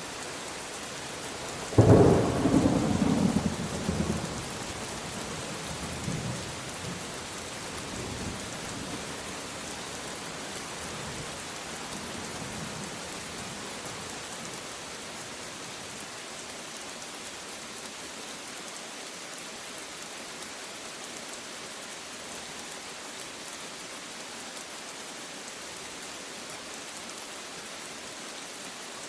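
Steady rain falling, with a thunderclap that cracks suddenly about two seconds in. The thunder rolls on in fading rumbles for about ten seconds, then only the rain goes on.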